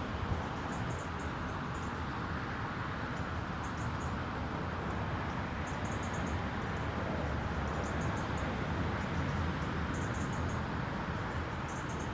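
Steady rumble and hiss of wind on the microphone outdoors, with faint clusters of short, high-pitched ticks or chirps every second or two.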